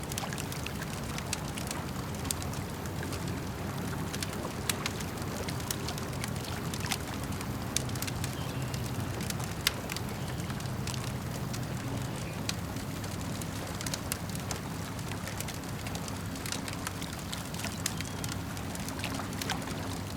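Campfire crackling, with sharp pops at irregular intervals over a steady wash of lake water.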